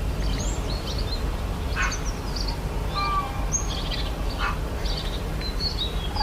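Birds chirping: many short, high chirps, with a couple of longer whistled notes about three seconds in and near the end, over a steady low rumble.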